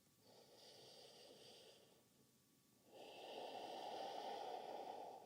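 Two slow, audible breaths from the yoga teacher: a faint one first, then a longer, louder one starting about three seconds in.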